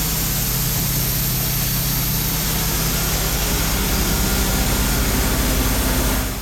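Band sawmill running steadily as it saws open a walnut log: a low engine hum under the noise of the blade cutting.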